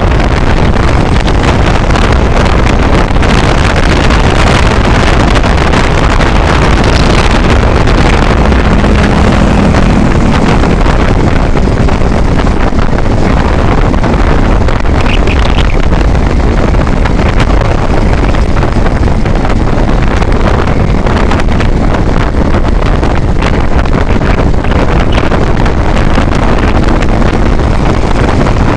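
Loud, steady wind rush on the microphone of a moving vehicle on the highway, with road and engine noise underneath.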